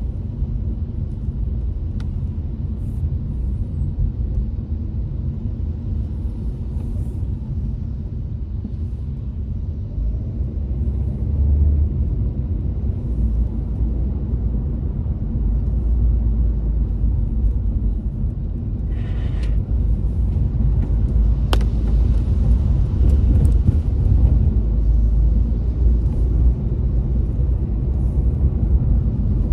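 Steady low road and engine rumble inside a moving car's cabin, growing louder about halfway through, with a single brief click about two-thirds of the way in.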